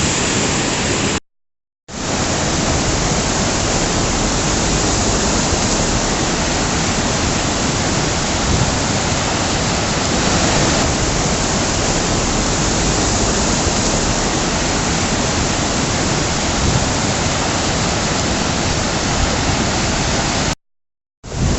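Steady rushing of a flood-swollen river, broken twice by a brief dead silence: once about a second in and once near the end.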